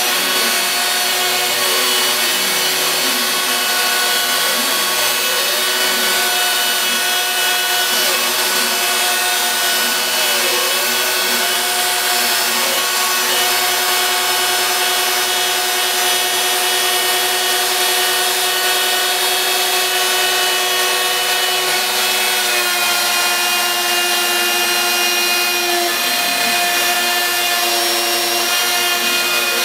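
Home-built CNC router cutting MDF: the router spindle runs with a steady high whine while the cutter chews through the board. Under it a softer motor whine rises and falls in repeated arcs as the machine traces curves, mostly in the first half and again near the end.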